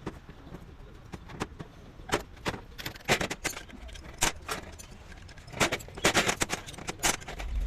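Irregular sharp metallic clicks and clinks of hand tools and parts being handled, clustering about three seconds in and again about six seconds in, with a low rumble starting right at the end.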